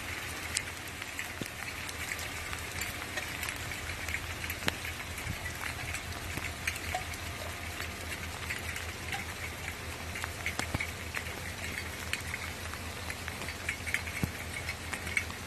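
Steady rain falling, an even hiss with many small drop ticks scattered through it and a low steady hum underneath.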